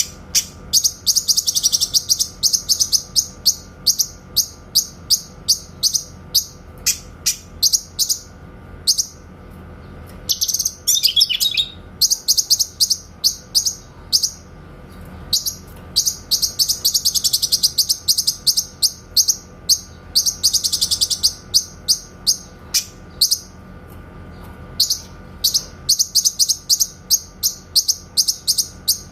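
Cucak kinoy singing its rapid-fire 'tembakan' call: fast runs of sharp, high chirps, many a second, in long bursts with short pauses. A lower, falling warble comes about ten seconds in.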